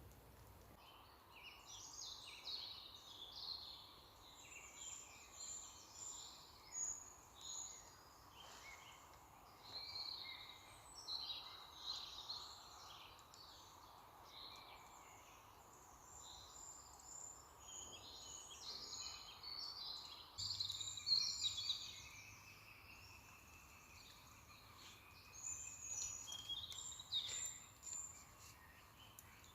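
Several songbirds singing at once, a chorus of overlapping chirps and trills, with a faint steady hiss of the forest underneath.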